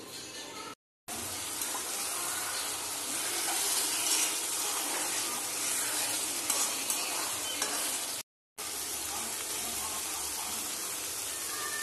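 Mutton pepper fry sizzling in a pan as a spoon stirs it through the thick masala, with a few light clicks of the spoon. The sound drops out twice, briefly, where the footage is cut.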